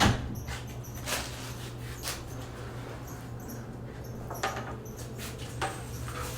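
House cats making a few brief, faint sounds during a tense meeting, with a sharp knock at the start and light knocks in between.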